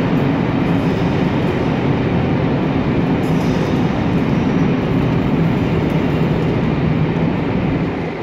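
Train of Pullman coaches rolling slowly past, a steady rumble of wheels on the rails, easing off slightly near the end.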